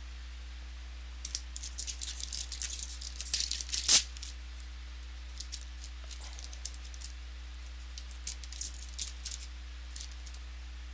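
Crinkling and crackling of a trading-card pack wrapper being torn open and handled, with a sharp snap about four seconds in, then scattered lighter crackles. A steady low electrical hum runs underneath.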